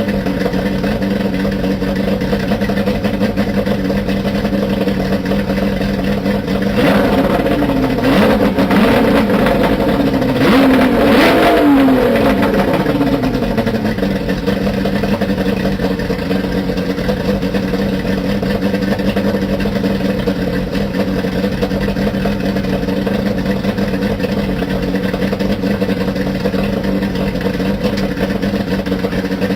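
Johnson two-stroke outboard motor running steadily, with its pitch rising and falling for a few seconds about a quarter of the way in.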